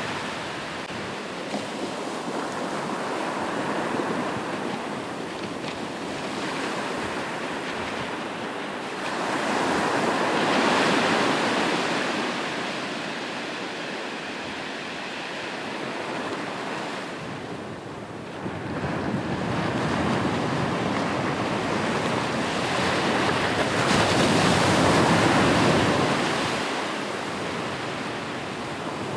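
Ocean waves breaking and washing on a shore, the surf swelling and ebbing every several seconds, with the biggest swells about a third of the way in and near the end.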